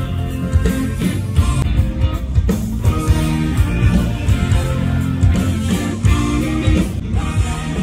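Rock band playing live at a sound check: electric guitar over bass and a steady drum beat, heard through the stadium PA.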